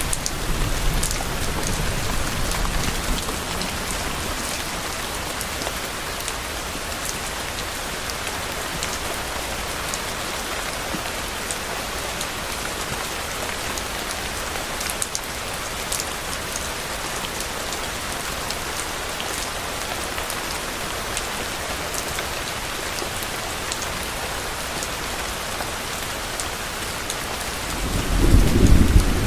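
Steady heavy rain with scattered sharp drop splats, and low thunder rumbling: a rumble fades away over the first few seconds and another swells up near the end.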